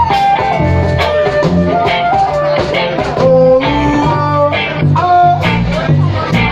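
Blues-style band music: guitar over bass and drums with a steady beat, and a gliding melodic lead line above.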